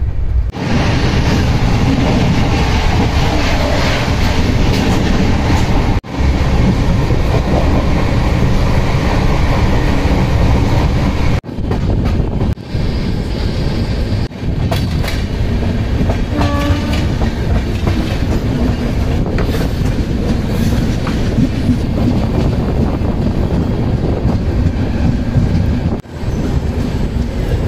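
Double Decker Express train running, its wheels clattering over the rail joints under a steady rush of noise, heard from the coach. The sound is broken by several abrupt cuts, and a short pitched tone sounds about two-thirds of the way in.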